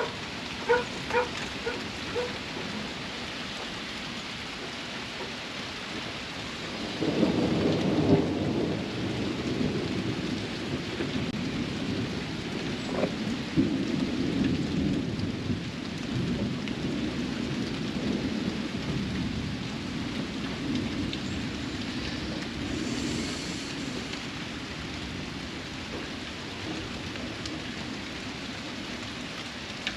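Steady heavy rain falling, with a long rolling rumble of thunder that swells about seven seconds in and goes on for over ten seconds before fading back to the rain.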